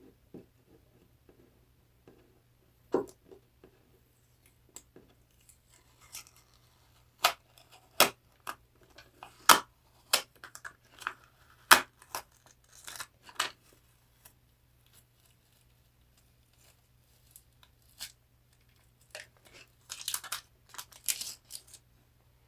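Small sharp clicks and snaps, then scratchy tearing near the end, as a glued piece in a dollhouse room is worked loose and peeled off by hand.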